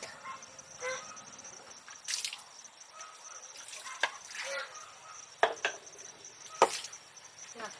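Insects trilling steadily on one high note, with a few sharp clicks or knocks, the loudest about two-thirds of the way through.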